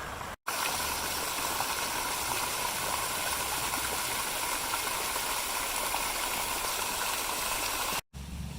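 Water fountain running, a steady splashing hiss of falling water. It starts abruptly about half a second in and cuts off shortly before the end.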